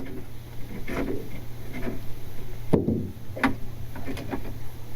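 Scattered knocks and clicks of fishing gear being handled in a boat, with one louder knock about three seconds in, over a steady low hum.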